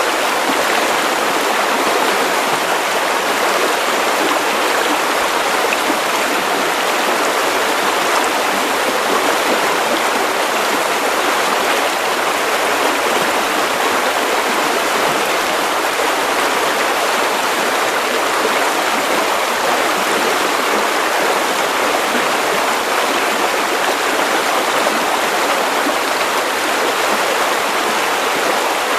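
Steady white noise: an even, unchanging hiss with little deep rumble.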